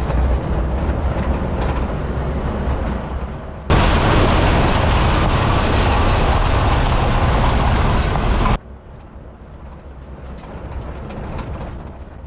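Vehicle driving noise: a steady low rumble and rush in three joined clips. It jumps louder about three and a half seconds in and drops sharply to a quieter rumble about eight and a half seconds in.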